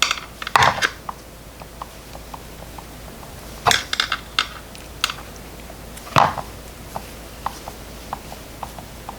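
Small model parts being handled on a workbench: a few sharp clicks and taps, about half a second in, around four seconds in and just after six seconds, with faint light ticking between.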